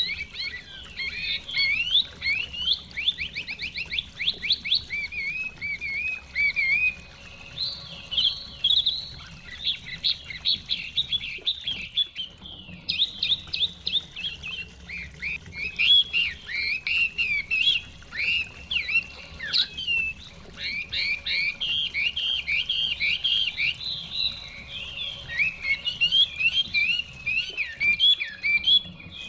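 Chinese hwamei singing a long, fast, varied song of whistled phrases and rapid trills, with a brief break about twelve seconds in.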